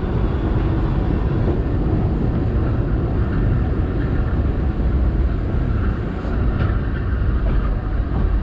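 Steady low rumble of a narrow-gauge railway train running on the line, heard from aboard.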